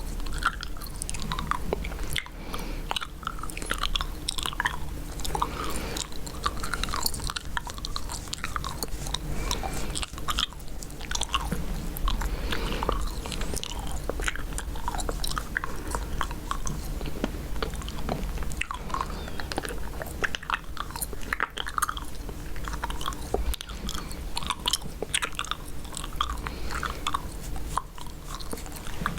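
Chewing gum close to the microphone: a continuous, irregular run of short mouth clicks and smacks.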